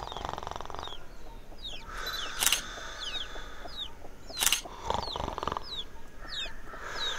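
Birds chirping: many short, high, falling chirps repeating, with a buzzy rattling call at the start and again about five seconds in. Two sharp clicks sound about two and a half and four and a half seconds in.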